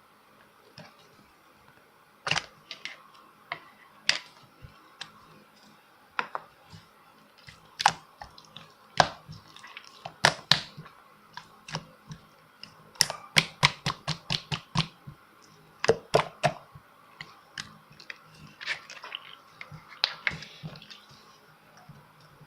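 A series of irregular sharp clicks and taps, some coming in quick clusters, over a faint steady hum.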